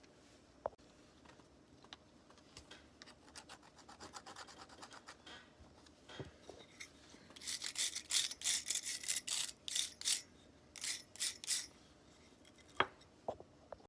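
Back-and-forth hand rubbing strokes on an old Soviet folding knife being restored, faint at first and then louder and quicker at about three to four strokes a second for a few seconds past the middle. A couple of sharp clicks follow near the end.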